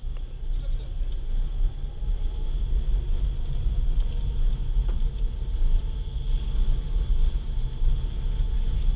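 Tata Altroz hatchback driving, a steady low rumble of engine and road noise.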